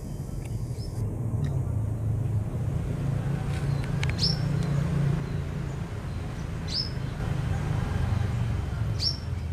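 A low steady rumble with three short, high bird chirps about two and a half seconds apart.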